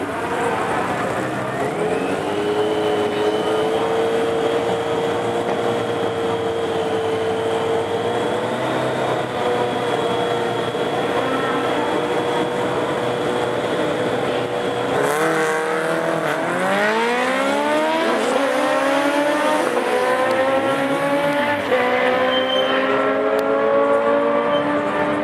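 Honda CBR1100XX Blackbird's inline four-cylinder engine held at steady high revs on the line. About fifteen seconds in it launches and accelerates hard, the pitch climbing and dropping back with each upshift.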